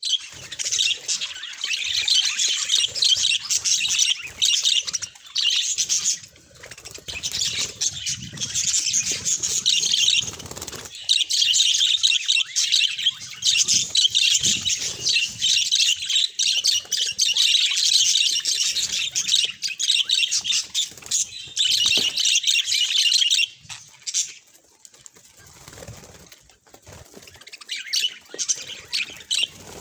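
Budgerigars chattering and warbling: a dense run of quick chirps with short breaks, dropping off about three-quarters of the way through before picking up again near the end.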